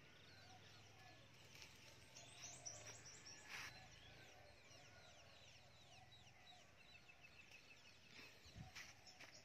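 Faint birds chirping in the background, a run of short falling chirps that repeat several times a second in two spells. Two brief rustles from plants being handled come about a third of the way in and near the end.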